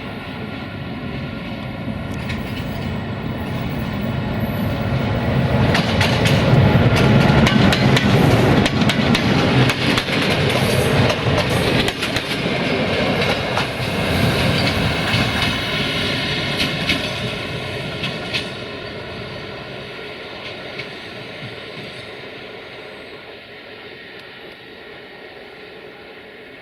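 A train passing on the rails: the running noise swells over the first few seconds, stays loud with the clickety-clack of wheels over rail joints for about twelve seconds, then fades away.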